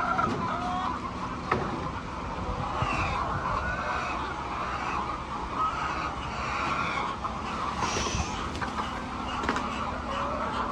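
A flock of hens clucking and calling over one another, with a few sharp clicks.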